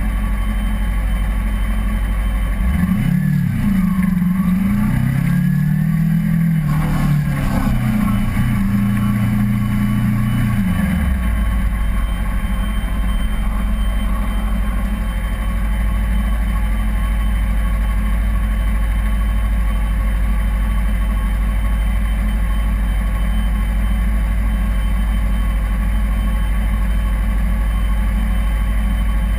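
Kawasaki Ninja 250R's parallel-twin engine idling, revved several times with the pitch rising and falling from about three seconds in, then settling back to a steady idle about eleven seconds in.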